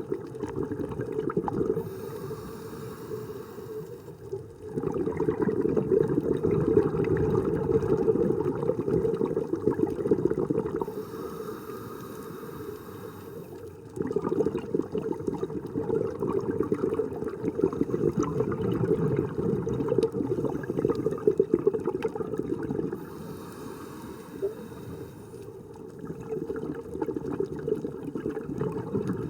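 A scuba diver breathing through a regulator underwater: long, loud bursts of exhaled bubbles, each broken by a short, quieter inhalation hiss, three breaths in all.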